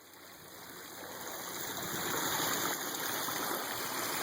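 Small spring-fed waterfall splashing and rushing steadily, fading in over the first two seconds.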